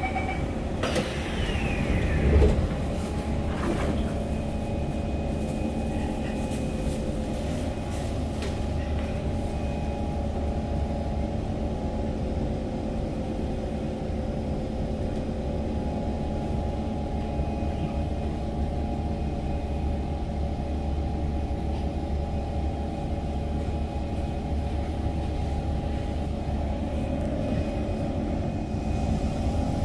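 Steady low hum of an SMRT C151 metro train car standing at a platform, with a few faint steady tones over it, heard from inside the car. A loud thump sounds about two seconds in.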